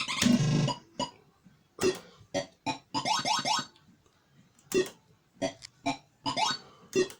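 Cashcade 2p fruit machine playing through its electronic sound effects: a loud synthesized chord at the start, then sharp clicks each followed by a quick run of rising beeps, repeating every second or so.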